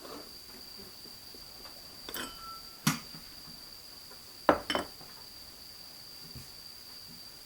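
Kitchenware being handled: a few light clinks and knocks of dishes or utensils, one with a short ringing tone. A steady high-pitched tone runs underneath.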